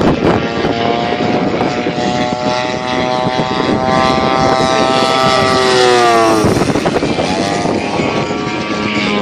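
Desert Aircraft DA-120 twin-cylinder two-stroke petrol engine and propeller of a 35% scale Extra 300 RC plane running. Its pitch climbs slowly, drops sharply about six and a half seconds in, then climbs again.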